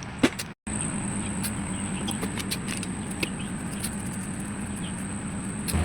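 A steady machine hum with a constant low tone and a faint high whine, with scattered light ticks; the sound cuts out completely for a moment about half a second in.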